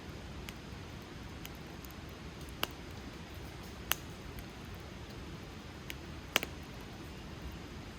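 Wood fire crackling: irregular sharp pops, three of them loud with the loudest about six and a half seconds in, and a few faint ones, over a steady low rush of the burning fire.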